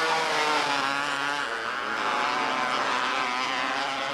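Several small race-car engines running at once, their pitch rising and falling as they lap the track.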